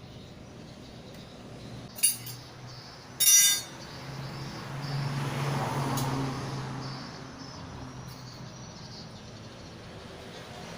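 Two sharp metallic clinks about a second apart, as of metal tools or parts knocking together, then a steady noise that swells for a few seconds over a low hum and fades away.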